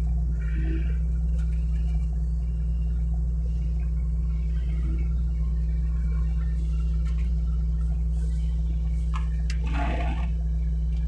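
Hitachi mini excavator's diesel engine running steadily, with a brief harsh noise near the end.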